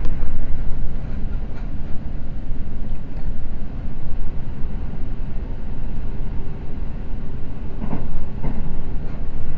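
Seibu Red Arrow limited express train running at speed, with the steady rumble of wheels on rail heard from inside the car. Two short clatters come about eight seconds in.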